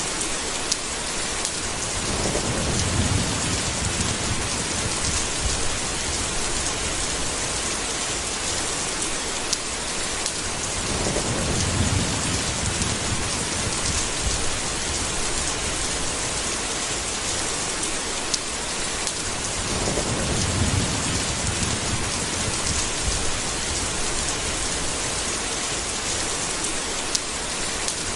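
Steady heavy rain with three low rolls of thunder, about one every nine seconds.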